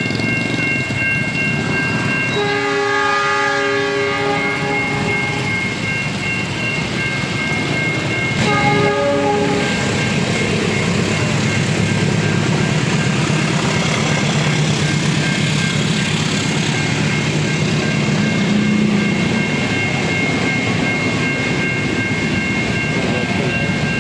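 Level-crossing warning siren sounding continuously with a steady high electronic tone, while a train blows its horn: a long blast about two and a half seconds in and a short one about eight and a half seconds in. From about nine seconds on the train passes through the crossing, its rumble and wheel clatter over the rails joining the siren.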